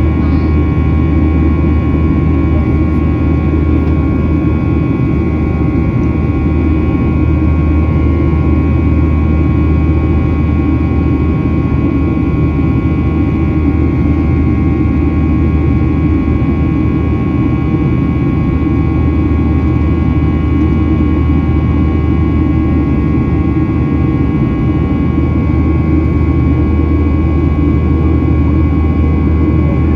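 Boeing 737-800 cabin in flight: a steady low rumble of jet engines and airflow, with several steady whining tones from the CFM56-7B turbofans above it.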